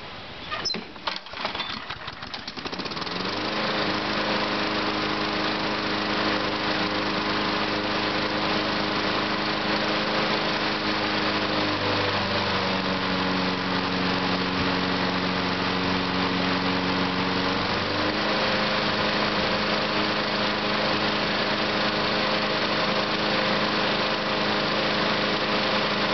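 Craftsman lawn mower's 6.5 hp Briggs & Stratton engine started from cold: a few short rattles of cranking, then it catches within about three seconds and runs steadily. Its speed drops about twelve seconds in and comes back up about six seconds later.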